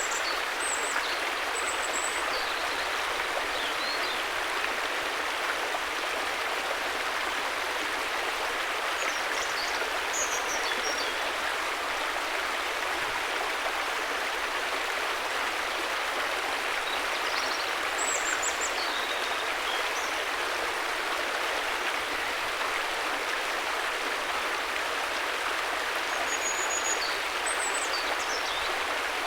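River water flowing with a steady, even rush, with brief high chirps a few times over it.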